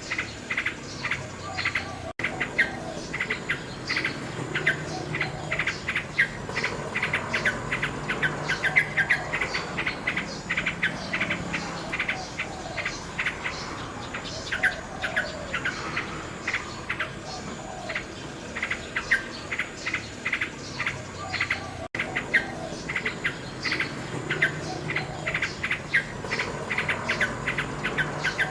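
Nightingale singing: fast runs of repeated clicking and whistled notes, with insects such as crickets trilling steadily behind. The sound cuts out for an instant twice.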